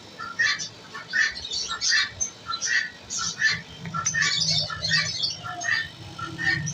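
Many small caged birds chirping and squawking over one another in a busy, continuous chatter of short calls.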